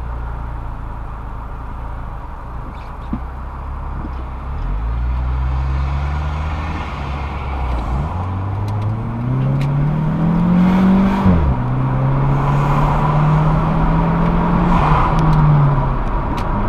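Dodge Stratus 2.4-litre four-cylinder engine and exhaust pulling under acceleration. The note rises in pitch, drops back about eight seconds in, and climbs again to its loudest point around eleven seconds in. There it falls sharply, as at a gear change, then holds and slowly rises before easing off near the end.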